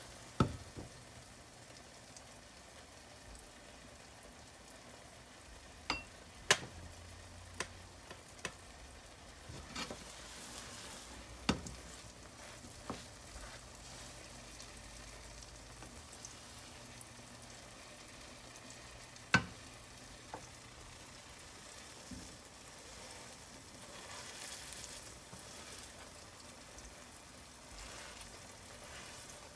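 An egg pancake with onion and paprika sizzling quietly in a frying pan. A wooden spatula works the pan with scattered sharp taps: one right at the start, a cluster about a fifth of the way in, another near the middle, and a loud one about two-thirds in.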